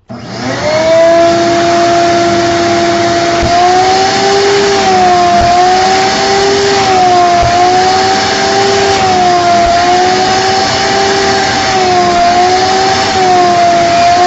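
Vacuum cleaner switched on and run over upholstery. Its motor whine climbs as it spins up, holds steady, then from a few seconds in dips and recovers about every second and a half as the nozzle is worked across the fabric.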